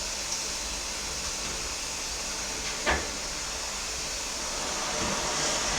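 Vacuum cleaner running steadily with a hissing rush of air, and a single knock about three seconds in.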